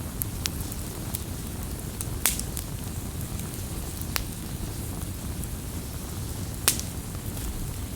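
Campfire burning with a steady low rush of flame and scattered crackles and pops from the burning wood, two sharper pops standing out about two and six and a half seconds in.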